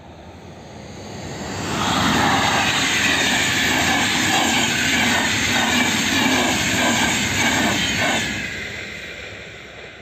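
EN 477 Metropol passenger train passing at speed: the rushing noise swells over the first two seconds, holds with a rhythmic wheel clatter about twice a second, then fades over the last two seconds.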